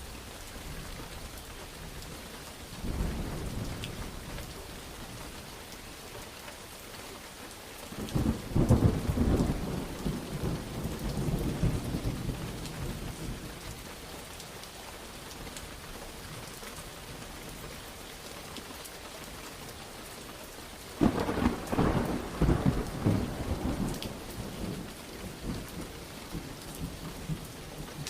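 Steady rain with thunder: a short low rumble about three seconds in, then two loud, rolling peals starting sharply around eight and twenty-one seconds in, each fading over several seconds.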